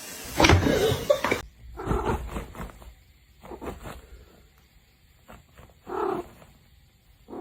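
A loud noisy burst in the first second or so, then a cat giving several short meows a second or two apart.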